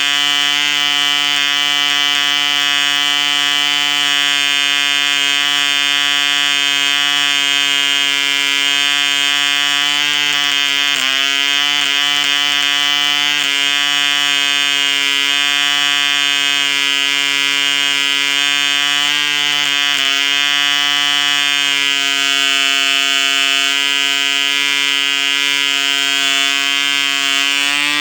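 1959 ED Mk2 1cc model diesel engine running fast with an 8x4 propeller: a loud, steady, high-pitched buzz. Its pitch briefly sags and picks up again a few times, about ten seconds in, near thirteen seconds and about twenty seconds in.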